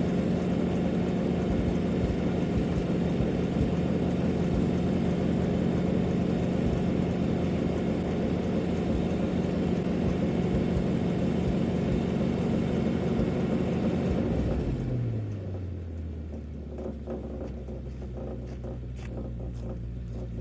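Old International boom truck's engine held at steady high revs, then dropping back to a low idle about fourteen and a half seconds in.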